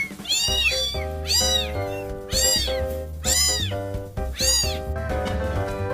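A cat meowing five times, about once a second, each meow rising and then falling in pitch, over background music with a steady bass.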